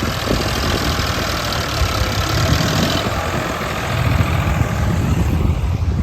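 Heavy diesel engine of a backhoe loader or tractor running steadily with a low rumble; the higher-pitched part of the noise eases off about halfway through.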